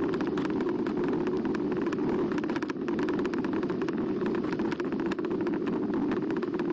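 Ride noise from a Carbo X eBike moving along a path: a steady low rumble with a rapid crackling patter over it the whole time.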